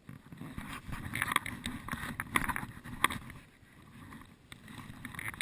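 Rustling and crackling of someone moving quickly through forest undergrowth, with many short crunches. It is loudest in the first half and eases off towards the end.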